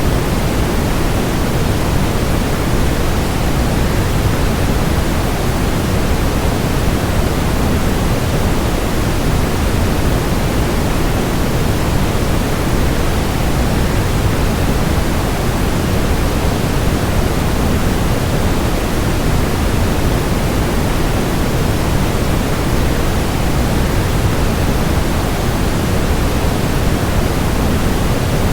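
Waterfall rushing as a steady, unbroken noise, deepest and strongest in the low end, with no change or separate sounds.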